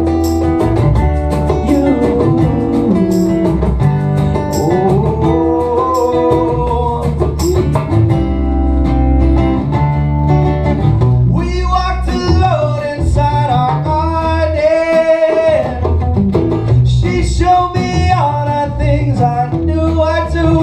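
Acoustic band playing live: strummed acoustic guitars with a steady percussive beat, and a wordless sung melody over them in the second half.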